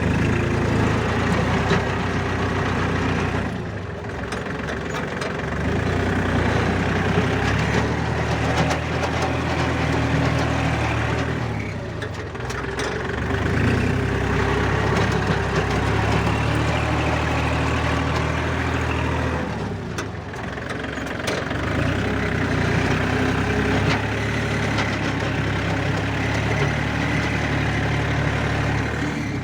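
Four-wheel-drive tractor engine running steadily while driving a rotavator through soil. The engine note dips and recovers roughly every eight seconds.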